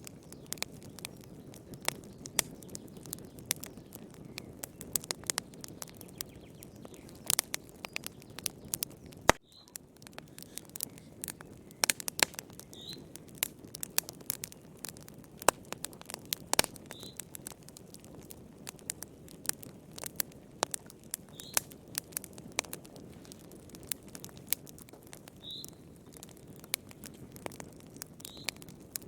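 Wood fire crackling in a fireplace: irregular sharp pops and snaps, some louder than others, over a soft low rumble of the burning. A faint short high chirp recurs every few seconds, and the sound dips briefly about nine seconds in.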